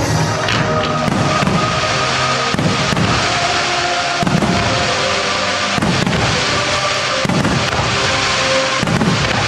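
Aerial firework shells bursting in a steady series, about one report a second, over the music accompanying the display.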